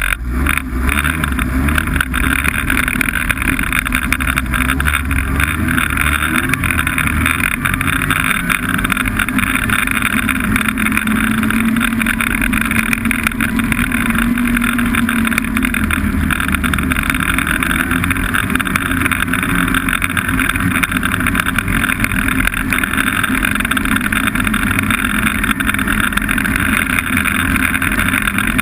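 Snowmobile engine running steadily under way, its pitch rising a little about ten seconds in and easing back a few seconds later.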